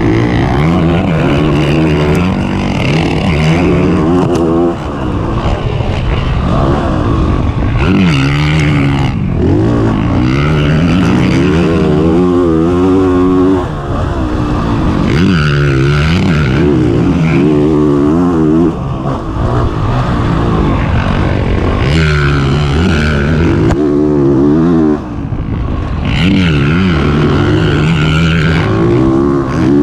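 2021 Honda CRF450RX's single-cylinder four-stroke dirt bike engine revving up and down over and over as it is ridden hard, with brief drops where the throttle is chopped every few seconds.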